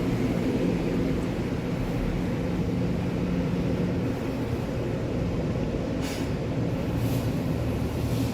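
Steady low drone of a tunnel car wash's equipment heard from inside the car during the pre-soak stage, with two short hisses about six and seven seconds in.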